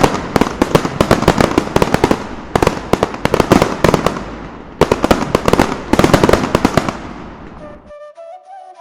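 A string of firecrackers going off: rapid sharp bangs in several clustered bursts, cutting off suddenly about eight seconds in.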